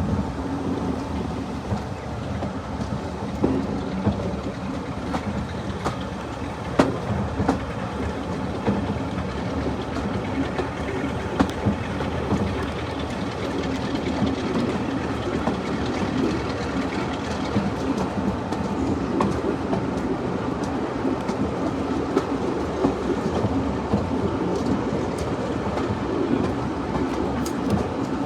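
Running noise of a diesel-hauled heritage passenger train heard from aboard a coach: a steady rumble of wheels on track, with scattered sharp clicks and clatter over rail joints.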